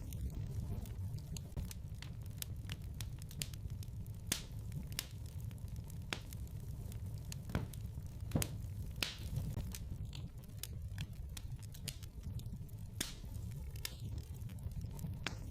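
Wood fire burning in a fireplace: irregular sharp crackles and pops over a steady low rumble of the flames, with one louder pop about eight seconds in.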